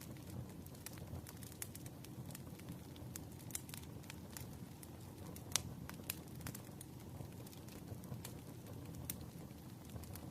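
Crackling fire with rain: irregular small pops and snaps over a steady low wash of rain noise, with one sharper pop about five and a half seconds in.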